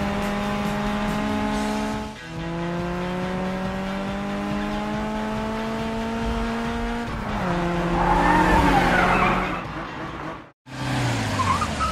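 Racing car engine accelerating, its pitch climbing slowly and dropping at each gear change about two and seven seconds in. A tyre squeal follows, and the sound cuts out briefly near the end.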